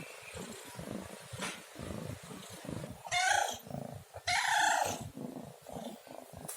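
Domestic cat meowing twice, a short meow about three seconds in and a longer one just after four seconds, over a low, uneven rumble.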